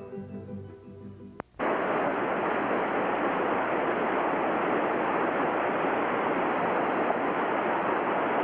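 The tail of acoustic guitar music fades out, then about a second and a half in it cuts abruptly to the loud, steady rush of whitewater river rapids.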